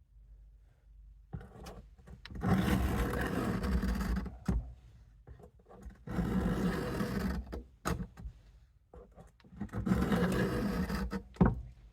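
Case USMC knife blade drawn across a WD-40-lubed diamond sharpening stone in three long strokes, each a grinding scrape ending in a short click.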